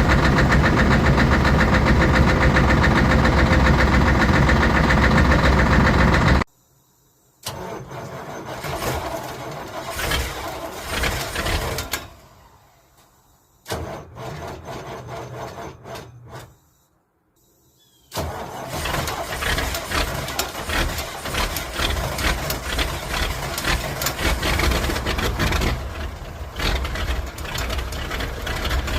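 Diesel truck engines cold-starting and running, in several clips joined by abrupt cuts and short silent gaps. The first is a loud, even engine sound that stops suddenly after about six seconds. The later ones are rough and clattery, with dense rapid knocking, and the last runs on from about eighteen seconds in.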